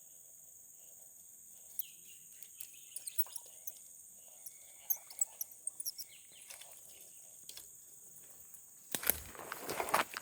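Outdoor ambience of a steady, high insect drone with scattered bird chirps and small clicks. About nine seconds in there is a loud burst of close rustling.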